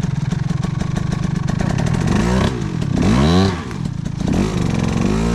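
Dirt bike engine idling steadily, then revved up and back down several times from about two seconds in.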